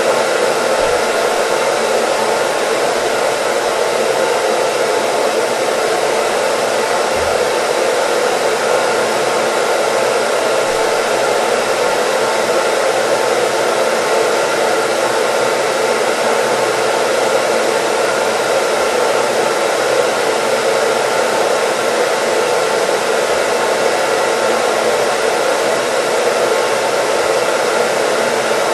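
Hair dryer running steadily: an even, unchanging rush of fan and air noise.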